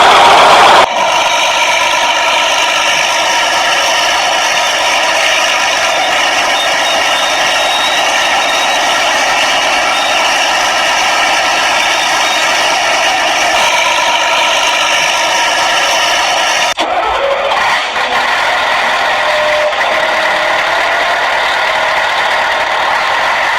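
Battery-operated toy vehicle running: a steady engine-like hum and whir that breaks off briefly about two-thirds of the way through, then carries on.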